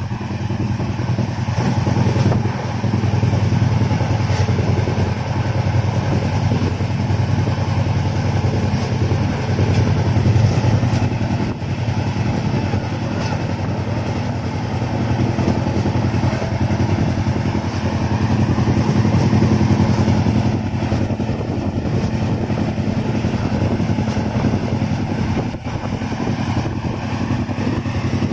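Indian Railways express train running at speed, heard from a window seat inside the coach: a steady low rumble of wheels on track with faint scattered knocks.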